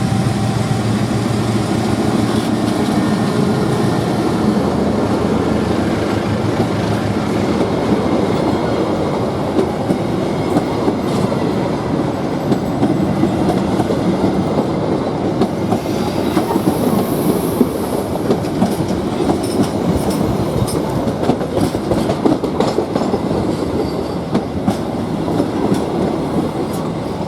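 Gajah Wong passenger train passing: the diesel-electric locomotive's engine drone first, then the carriages' wheels clicking steadily over the rail joints, with a brief high wheel squeal about two-thirds of the way through.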